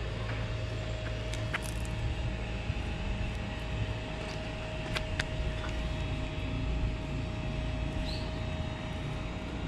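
Steady low outdoor background rumble with a faint constant hum, broken by a few sharp clicks.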